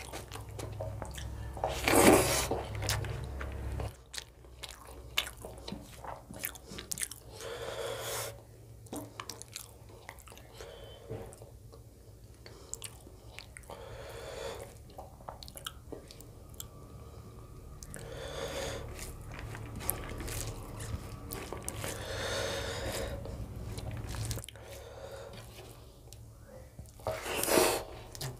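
Close-miked eating sounds of a person eating rice and chicken curry by hand: chewing and biting, with fingers squishing and mixing rice and gravy on the plate. Louder bursts come every few seconds, the loudest about two seconds in and again near the end.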